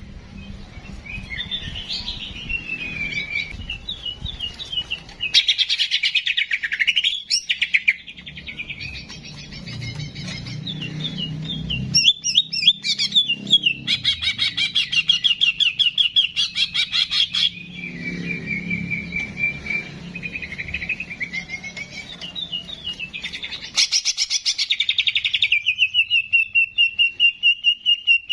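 A songbird singing a long, varied song of fast chattering phrases and rapid trills, with sudden switches between phrase types. It ends on a long, steady whistled note.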